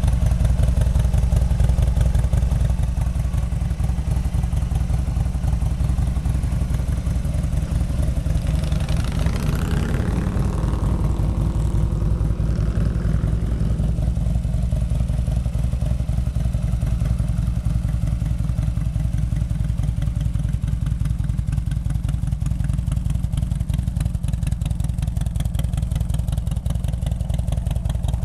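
1987 Harley-Davidson Electra Glide Classic's 80 cubic inch Evolution V-twin idling steadily.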